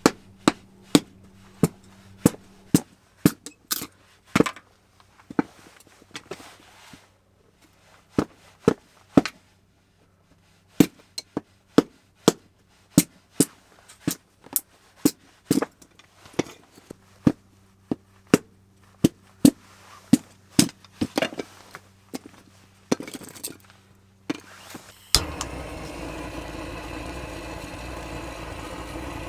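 A long run of sharp, irregular knocks, about one or two a second, like tool strikes. About 25 seconds in they stop and a steady mechanical hum starts.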